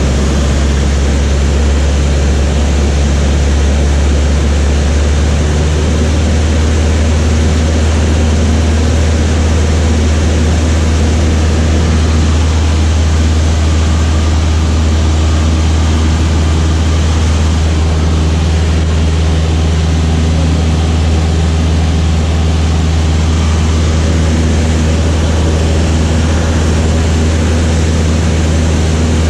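Light propeller aircraft's piston engine and propeller running steadily in flight: a loud, even, low drone with a faint tonal hum above it that shifts slightly a few seconds in.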